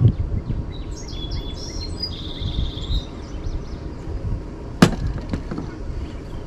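Small birds chirping, with a quick trill about two seconds in, over a low steady rumble. A single sharp click near five seconds in.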